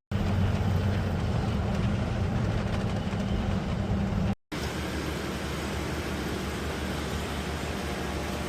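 Steady mechanical running noise with a strong low rumble. It cuts off abruptly about four seconds in and is replaced by a slightly quieter steady machine hum carrying faint steady tones.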